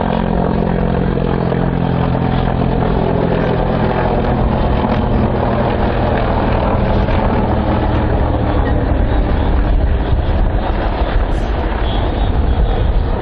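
Helicopter flying in a display, its engine and rotor noise loud and continuous; the steady low tones weaken about halfway through, leaving a rumbling wash of noise.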